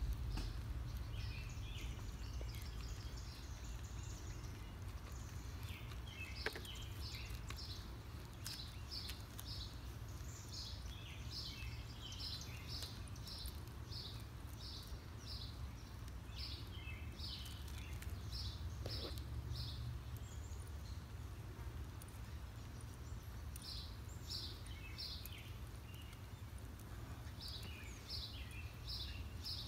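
Birds singing outdoors in runs of short, high chirps, several notes a second, over a steady low rumble.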